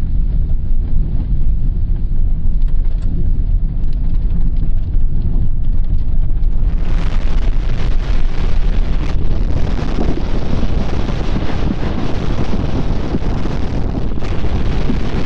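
Landslide: a loud, continuous low rumble and rushing noise that grows brighter and fuller about seven seconds in.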